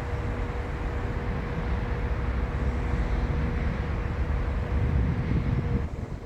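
A train running, with a steady low rumble and a steady high-pitched whine over it, growing louder about five seconds in before the sound drops away abruptly near the end.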